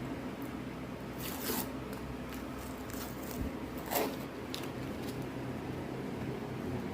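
A few brief scraping sounds from something being handled, the strongest about four seconds in, with faint ticks, over a steady low hum.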